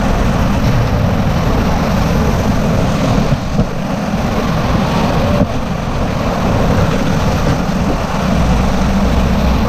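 Steady loud rushing of fast river water while rafting, with wind buffeting the microphone.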